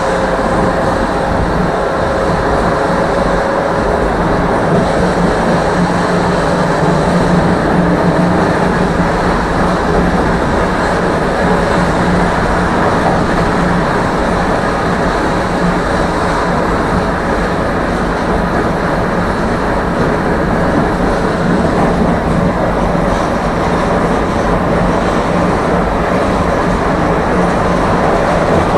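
Tram running steadily along its rails, heard from inside the passenger car: an even rumble of wheels and running gear with a low steady hum.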